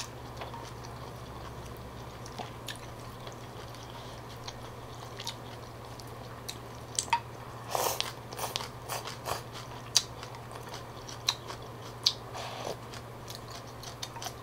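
Close-up eating sounds of a bowl of pho: chewing rice noodles and beef, with scattered wet smacks and small mouth clicks. A steady low hum runs underneath.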